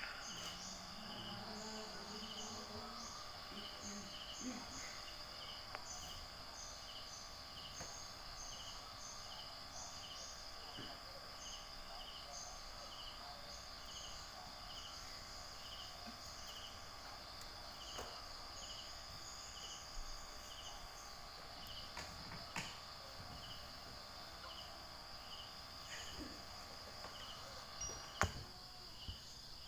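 Insects calling: a steady high-pitched trill with a regular chirp repeating about once a second, and a few faint knocks.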